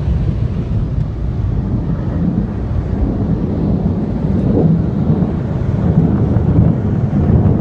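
Car wash air-dryer blowers, heard from inside the car, blowing hard over it: a loud, steady low rush of air.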